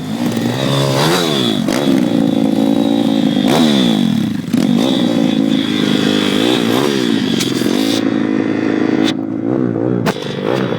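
Pit bike's small single-cylinder engine revving up and down repeatedly, its pitch climbing and falling in several blips, with a brief drop in level about four seconds in.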